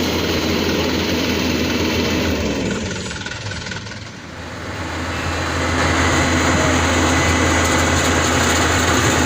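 Heavy engine running steadily, fading down about three seconds in and coming back up to full strength a couple of seconds later.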